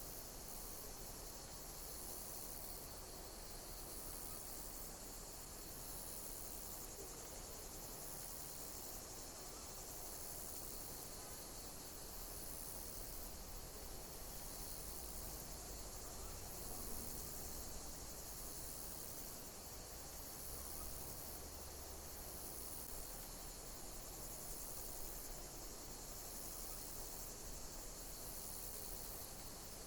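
Insects chirping in a very high-pitched call that repeats about every two seconds, over a steady high hiss of more insects.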